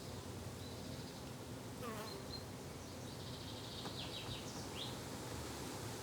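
Garden ambience of insects buzzing steadily, with a few short, high bird chirps a couple of seconds in and again past the middle.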